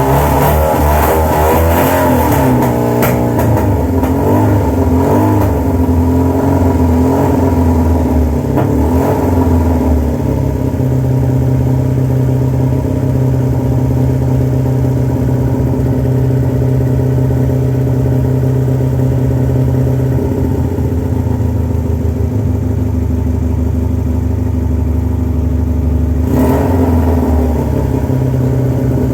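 Yamaha FZR600 motorcycle's inline-four engine running, revved up and down for roughly the first ten seconds, then held at a steady speed, with a change in its sound near the end.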